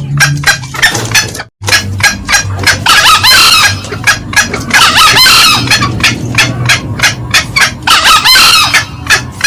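Green junglefowl lure calls, loud: a fast run of sharp cackling notes, about five a second, broken by three short hoarse crows about three, five and eight seconds in. A low hum runs underneath, and the sound drops out briefly about a second and a half in.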